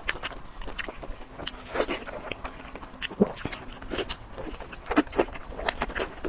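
Close-miked eating sounds: irregular chewing with crisp clicks and crunches, and an occasional heavier thump.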